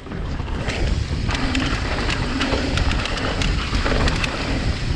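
Wind buffeting the microphone and tyres rolling over dirt as a mountain bike descends a trail at speed, with the bike rattling and clicking over the ground.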